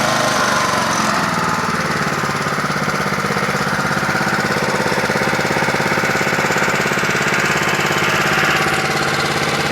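Small four-horsepower Honda engine of a self-propelled walk-behind lawn mower running steadily at speed, with an even, fast-pulsing exhaust note.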